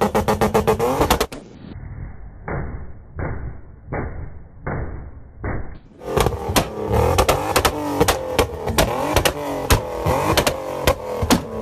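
Car engines running lumpy and revving, with rapid sharp cracks over the engine note. Between about one and six seconds in, a duller, muffled stretch of regular thumps about once every 0.7 seconds.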